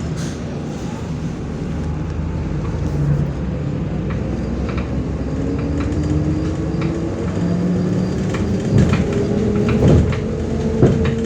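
Inside a MAZ-105 articulated city bus under way: engine and drivetrain running, with a whine that climbs steadily in pitch as the bus gathers speed. Body rattles and a few short knocks sound over it, the sharpest near the end.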